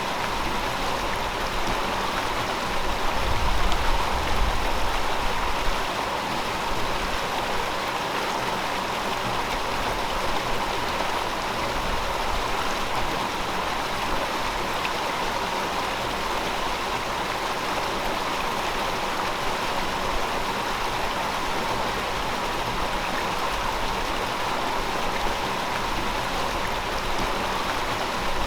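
River water flowing over rocks: a steady, continuous rush and babble, with a little more low rumble a few seconds in.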